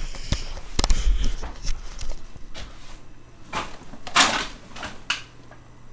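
Refrigerator door opened, followed by scattered clicks, knocks and rustles as things inside the fridge are handled and moved around.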